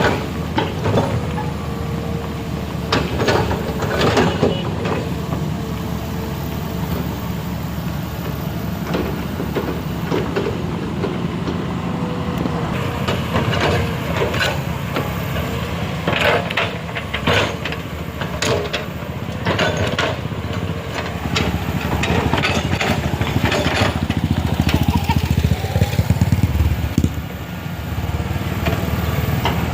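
A heavy vehicle's engine running steadily, with scattered knocks and clatters, thickest in the middle stretch.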